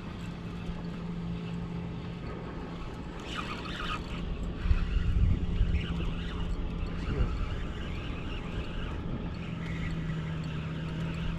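Boat's outboard motor running steadily at low trolling speed over water and wind noise, with a louder rumbling burst about four to five seconds in.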